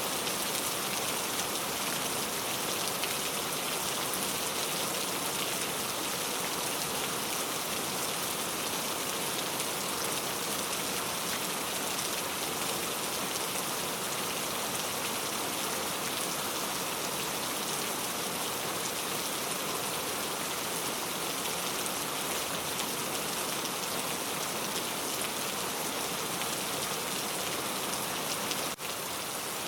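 Steady rain falling, an even hiss of drops on a surface, with a brief dip in level near the end.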